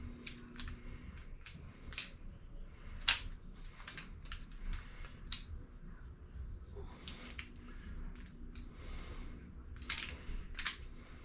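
Scattered light clicks and taps of small hard objects being handled, irregular, the loudest about three seconds in and again near the end.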